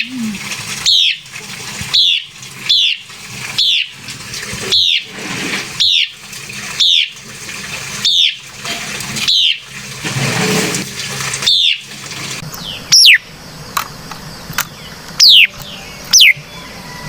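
White-browed laughingthrush calling: a regular series of short, downward-slurred notes about one a second, changing after about twelve seconds to a few sharper, higher downslurs, over a steady background hiss.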